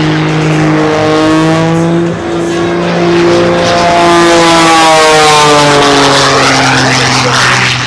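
Aerobatic propeller airplane's piston engine running hard overhead, its pitch rising slightly and then falling away in the second half as the plane passes.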